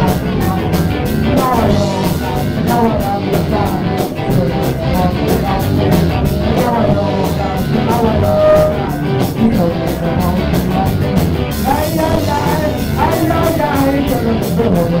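A rock band playing a song: drums keeping a steady beat on the cymbals, with guitar and a singing voice.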